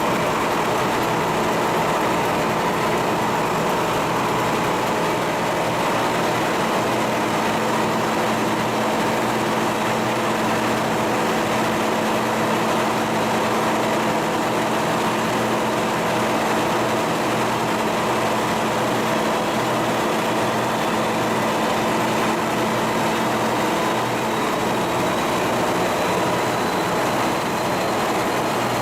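Cargo ship's diesel engine machinery running steadily: a continuous drone with several steady hum and whine tones over dense mechanical noise.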